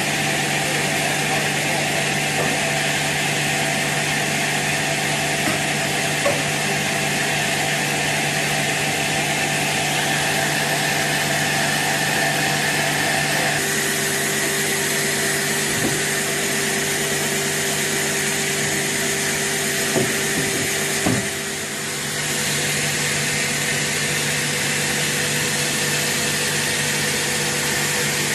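Sawmill saw and its motor running steadily through wood, the pitch of its hum shifting about halfway through, with a few sharp knocks in the later part.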